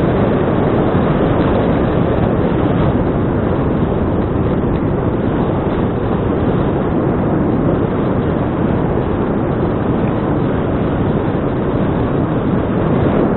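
Steady, loud wind rush on an action camera's microphone while cycling, with no clear tone or knocks in it.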